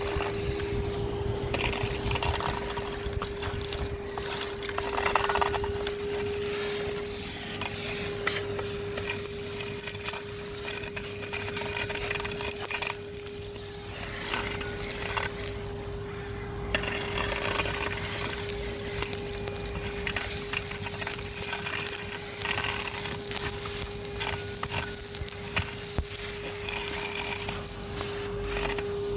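Numatic Henry HVR200-22 vacuum cleaner running with a steady motor whine, while grit and debris crackle and rattle as they are sucked up the hose.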